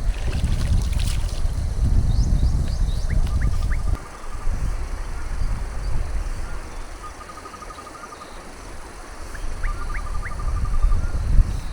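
Small birds calling: a rapid, evenly pulsed trill repeated three times, with short rising chirps between. Under them is a loud, uneven low rumble that eases off for a few seconds midway.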